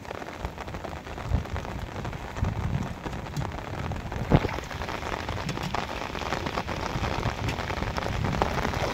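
Rain falling steadily on shallow floodwater and rice plants, a dense patter of drops, with a few low thumps and one sharper knock about four seconds in.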